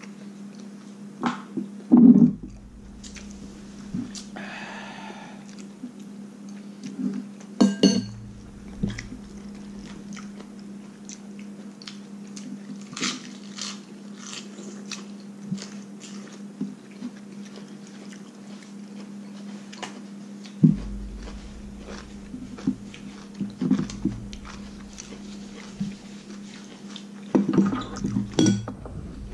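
A man chewing and eating stir-fried pork intestines, with scattered clicks and knocks of a spoon and chopsticks against bowls and plate, over a steady low hum.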